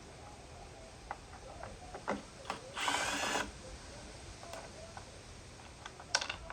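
Tools and plastic housing parts clicking and knocking as a Stihl BR600 backpack blower is taken apart, with one short rasping burst about three seconds in.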